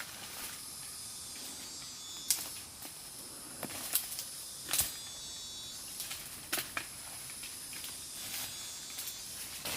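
Steady high hiss of insects, broken by half a dozen sharp knocks or snaps, two of them close together near the middle.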